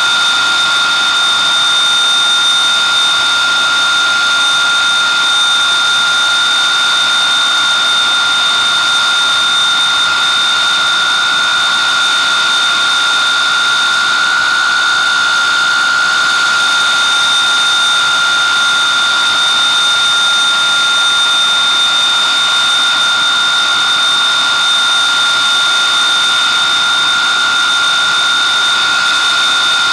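Avro Vulcan's Rolls-Royce Olympus turbojet engines running steadily, a loud roar with a high, constant whine.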